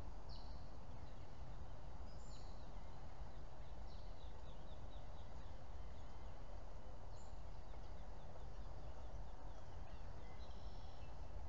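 Small birds chirping now and then, with a quick run of short chirps about four to five seconds in and another cluster near the end, over a steady low outdoor background rumble.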